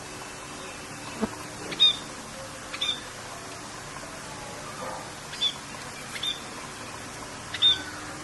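A bird giving short, high chirps, about six of them spread out, over a steady hiss of rain.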